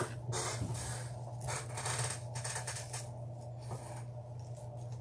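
Deco mesh crinkling and rustling in several short bursts as it is handled and tucked into a grapevine wreath.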